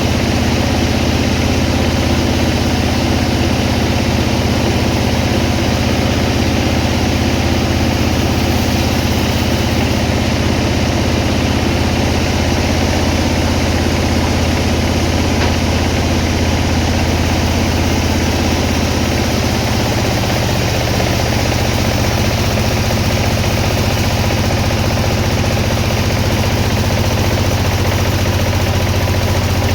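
Sawmill engine running steadily. Its low hum shifts a little higher in pitch about twenty seconds in.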